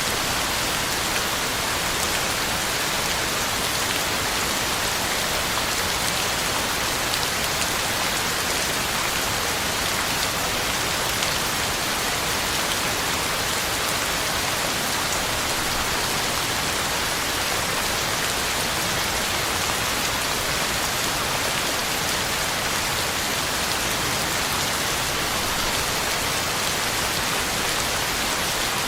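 Steady heavy rain falling, an even hiss of drops on leaves and the ground with no thunder.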